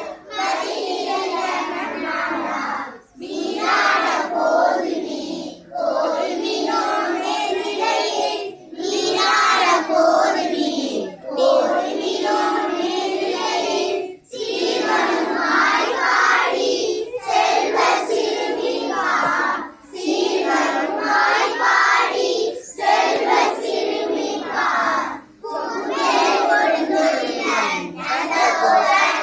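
A group of children's voices chanting together in unison, in phrases of two to three seconds broken by short pauses.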